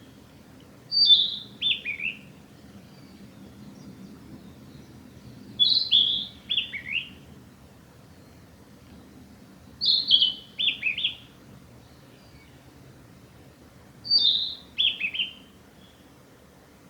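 Male narcissus flycatcher singing: four short song phrases about four seconds apart, each a quick run of clear whistled notes stepping down in pitch.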